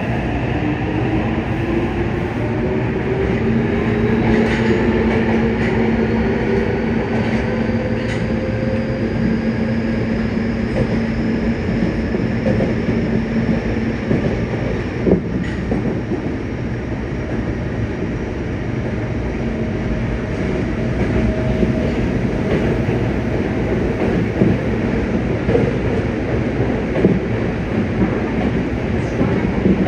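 Yokohama subway 3000N-series train with Mitsubishi IGBT-VVVF inverter drive: the inverter and traction-motor whine rises in pitch as the train accelerates over the first several seconds. It then runs at speed with a steady wheel-on-rail rumble and occasional clicks from rail joints.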